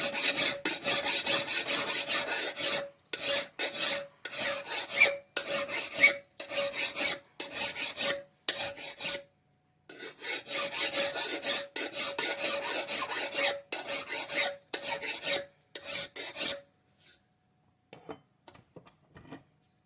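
Metal hand file rasping across an axe's cutting edge in quick, regular strokes with a faint ring on each, as the edge is finished at a steady angle. The filing stops briefly about nine seconds in, resumes, and ends about sixteen seconds in, followed by a few light ticks.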